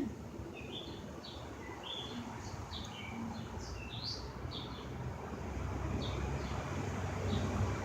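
Small birds chirping repeatedly, short high notes scattered through, over a low rumble that grows louder in the second half.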